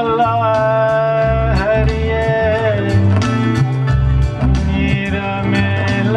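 Live Indian music: a sitar plays long held notes that bend and glide from pitch to pitch over a low, steady drum beat from tabla.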